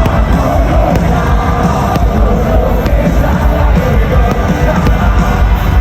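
Loud live rock band music with singing and crowd noise from the audience.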